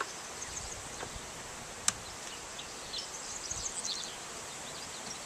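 Outdoor background noise with birds chirping in short high notes around three to four seconds in, and one sharp click about two seconds in.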